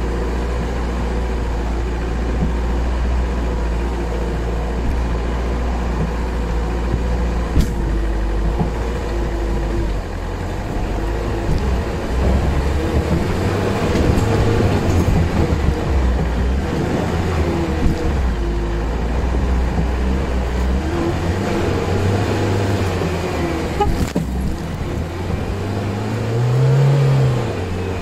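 Land Rover Freelander's engine working under load as it climbs a rocky off-road track, its revs rising and falling with the terrain. A sharp knock comes twice, and near the end the revs climb briefly.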